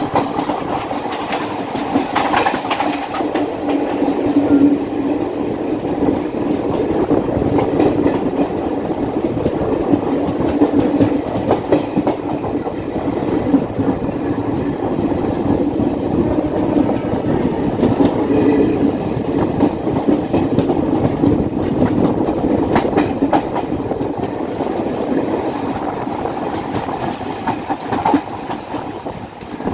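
Train running at speed on the track, a steady rumble with repeated clickety-clack of wheels passing over rail joints.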